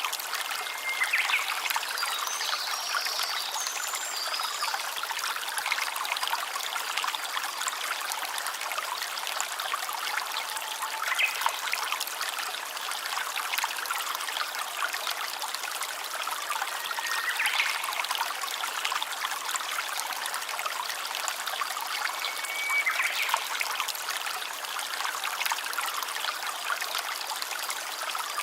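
Small stream trickling and babbling steadily over stones, with a few brief high chirps every several seconds.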